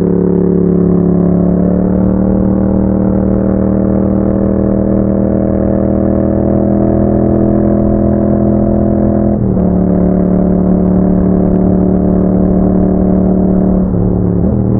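2021 Yamaha MT-07's parallel-twin engine running through an Akrapovic exhaust under way. The note holds at a steady engine speed after rising slightly at first, and breaks briefly twice: about nine and a half seconds in, and near the end.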